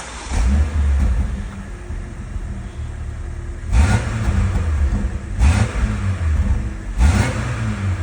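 BMW X3 M40i's B58 turbocharged inline-six running through a valved aftermarket exhaust, blipped four times with a loud exhaust burst on each blip, settling to a low idle between them.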